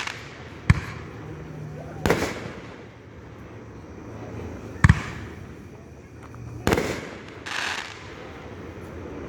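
Fireworks going off: four sharp bangs a second or two apart, followed by a shorter hissing burst near the end.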